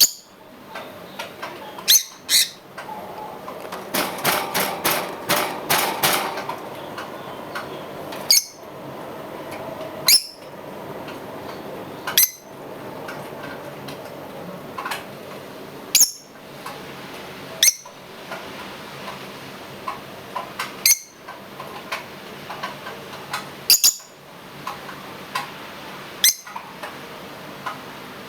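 Pet lovebirds giving short high-pitched chirps, one about every two seconds, with a run of rapid repeated chirps about four to six seconds in.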